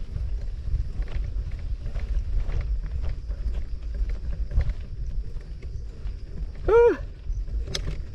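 Low rumble of wind and riding noise on the microphone of a camera carried on a bicycle ride. About seven seconds in there is one short call that rises and falls in pitch, the loudest sound, and a sharp click soon after it.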